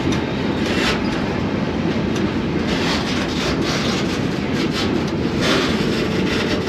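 Freight train rolling, heard from aboard one of its cars: a steady rumble of steel wheels on rail, with several metallic clanks and clatters through it.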